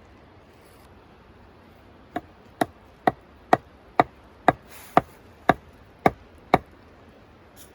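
A tool chopping wood: ten sharp, even strikes at about two a second, then it stops.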